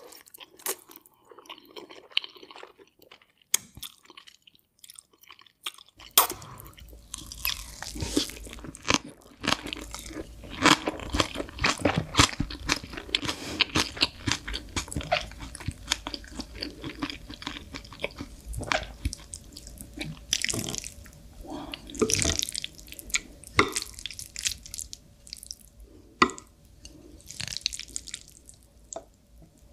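Close-miked ASMR eating: wet chewing and crunching of noodles and green onion kimchi. It is sparse and soft for the first few seconds, then much denser and louder from about six seconds in.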